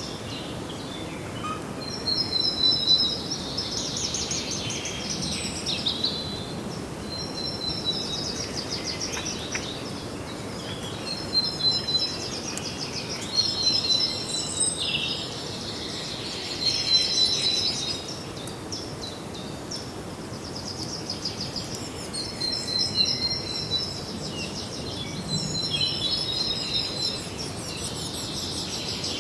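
Songbirds singing: high, trilled phrases repeated every few seconds over a steady background hiss of outdoor ambience.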